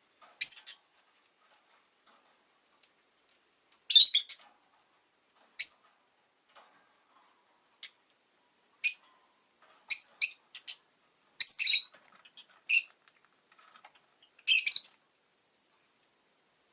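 Rosy-faced lovebird (peach-faced lovebird) giving short, loud, high-pitched chirps, about ten in all, spaced irregularly with some in quick clusters.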